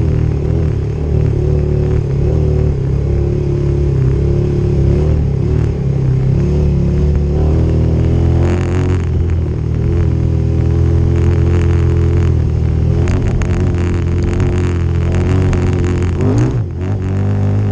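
Motorcycle engine running steadily on a dirt trail, with scattered crackling noise in the middle. Near the end the revs drop briefly, then rise again.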